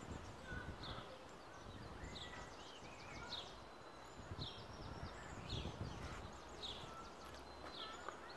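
Small birds calling faintly: a short, high chirp repeated about once a second, with other thin chirps in between, over a low rumble of background noise.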